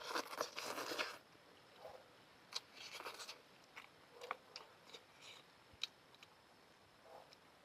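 Noodles being eaten close to the microphone: two short slurps, one at the start and one about two and a half seconds in, then quieter chewing with scattered wet clicks.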